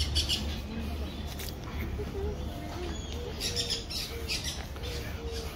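Birds calling: a low note repeated two or three times a second from about two seconds in, with short clusters of higher chirps at the start and again in the middle.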